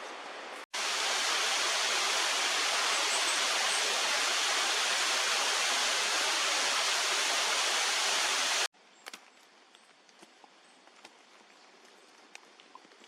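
Waterfall rushing steadily, starting and stopping abruptly at clip cuts, about one second in and near nine seconds. After it comes a much quieter stretch with faint scattered clicks.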